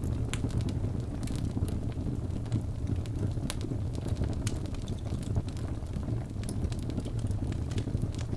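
Crackling fire: irregular sharp pops and crackles over a steady low rumble.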